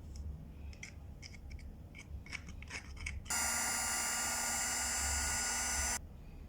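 Several light clicks and scrapes of handling, then a small electric motor tool switched on, running steadily at a high whine for about two and a half seconds, and cut off suddenly.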